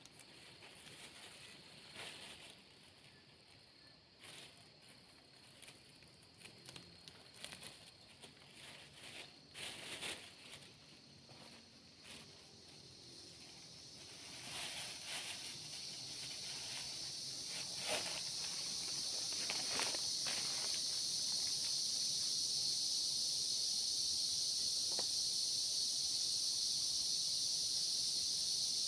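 Tropical forest insect chorus: a steady, shrill high-pitched hiss that swells in about halfway and then holds. In the first half, scattered light rustles and crackles sound over the quiet forest.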